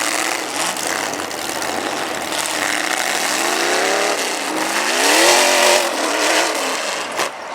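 Demolition derby truck engines running hard, with one engine revving up and falling back twice in the middle, over a steady wash of engine and tyre noise.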